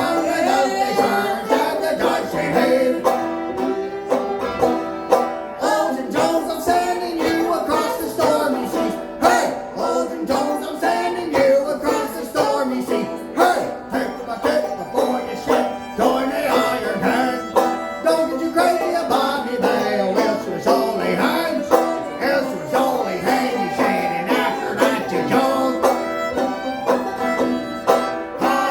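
Acoustic folk band playing a tune led by plucked string instruments, with a steady, busy rhythm.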